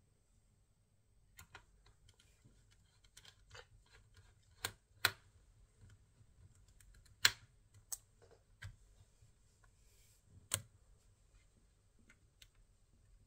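Irregular small clicks and taps of hard parts being handled, with a handful of sharper, louder clicks spread through the middle.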